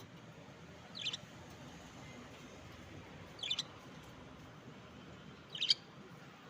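Budgerigars giving short, high chirps, three times about two seconds apart, over a faint steady hiss.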